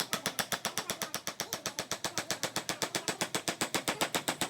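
Rapid, even tapping of a carving tool on wood, about nine strikes a second, stopping just after the end.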